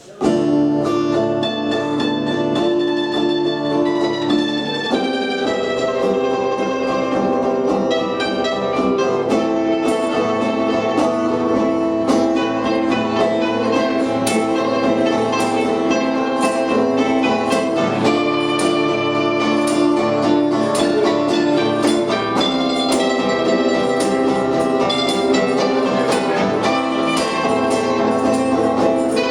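A punk band playing a song live, with guitar chords and regular percussive hits. It kicks in suddenly at full volume and holds with no singing.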